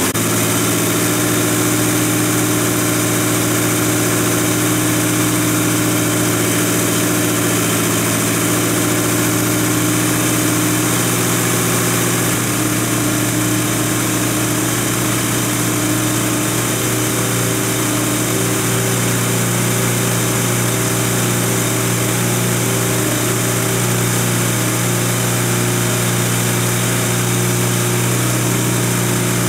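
A C3 Corvette's small-block V8 idling steadily on a cold start while its newly rewired electric choke warms and the choke plate opens. The engine note shifts slightly about twelve seconds in.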